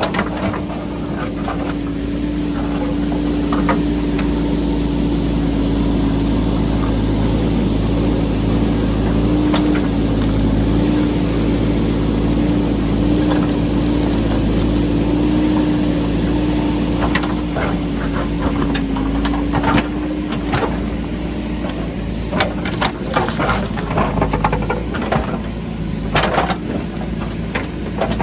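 JCB backhoe loader's diesel engine running steadily as it digs into a rocky hillside. From about two-thirds of the way in, rapid knocks and clatter of the bucket working rock come over the engine.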